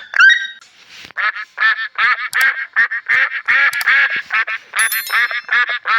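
Ducks quacking in a fast run of short calls, several a second.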